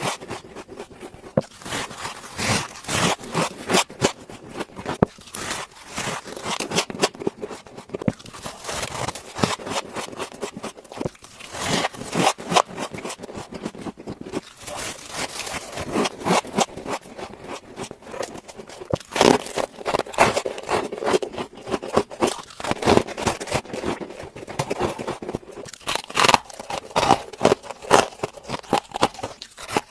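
Frost ice being scraped off the inside of a refrigerator freezer in quick, repeated scraping strokes, growing louder in the second half.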